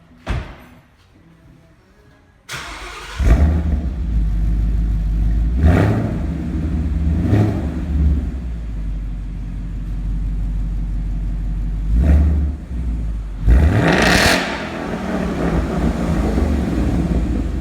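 Ford Mustang 5.0 V8 with a Roush axle-back exhaust starting up a couple of seconds in, then idling with four quick blips of the throttle, the loudest near the end.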